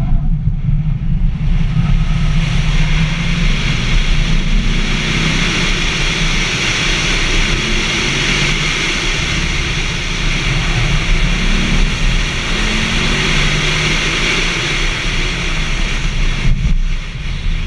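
2002 Corvette Z06's LS6 V8 running hard through an autocross course, its revs rising and falling as the car accelerates and brakes between cones, with wind noise over the microphone.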